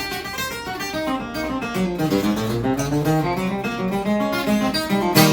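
Acoustic guitar played solo, a quick run of cross-picked single notes across the strings, ending on a strummed chord that rings out about five seconds in.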